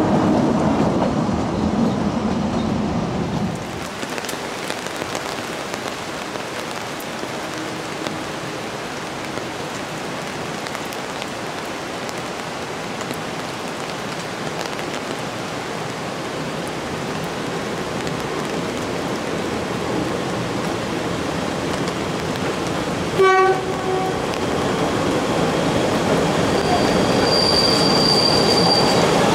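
A narrow-gauge work train on the rails. The last trolley cars rumble past for the first few seconds, then a steady background hiss. About 23 seconds in, the approaching electric locomotive gives one short horn blast, and near the end its running noise grows as its wheels squeal with a thin high steady tone on the curve.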